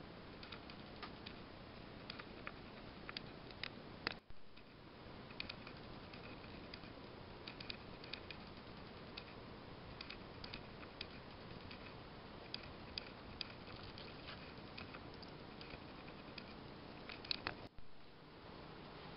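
Tinplate toy bullet train running on metal O gauge track: light, irregular clicking and ticking of wheels and mechanism over a steady faint hiss.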